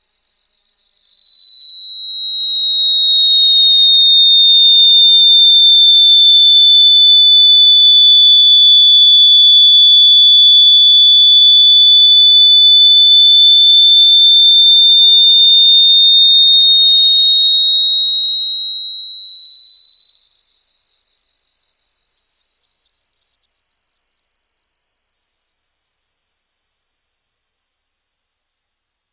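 A single loud, high-pitched pure electronic tone that sinks slowly in pitch over the first ten seconds or so, then climbs gradually higher through the rest.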